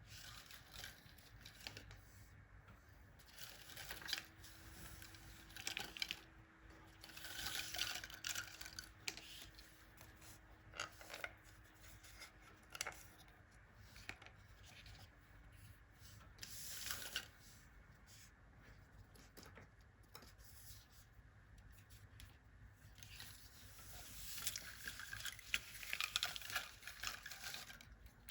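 Irregular scraping, rubbing and tearing sounds of close-up handwork, in short bursts with pauses between.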